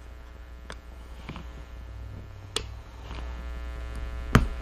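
A handful of sharp clicks and taps of a screwdriver and tools on a car starter motor's metal housing as its tight Phillips screws are worked loose, the loudest near the end, over a steady low hum.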